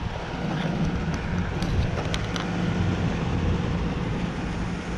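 Outdoor heat pump condensing units running: a steady low compressor hum with condenser fan noise.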